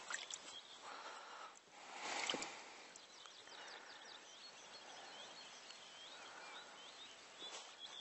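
Faint birdsong: many short chirping calls that rise and fall in pitch, starting about three seconds in, over a soft outdoor hiss. A brief rustling noise comes about two seconds in.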